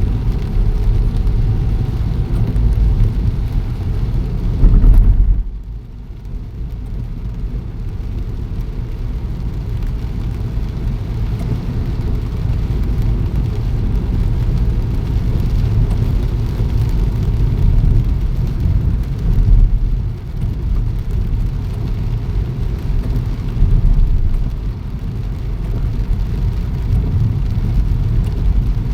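Rain falling with a steady low rumble of road vehicles. The rumble surges about five seconds in, then drops sharply.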